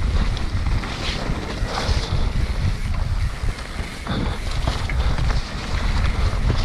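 Mountain bike riding downhill on a muddy trail: wind buffeting the camera's microphone as a steady low rumble, with scattered clicks and rattles from the bike.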